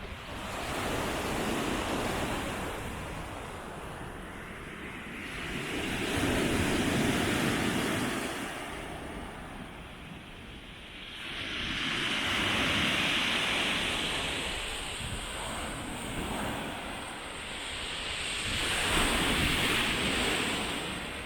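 Black Sea waves breaking on the beach, the surf swelling and washing back about every six seconds, four times.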